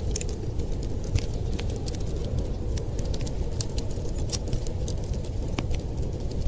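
A fireplace fire crackling with frequent sharp snaps and pops over a steady low rumble of blizzard wind.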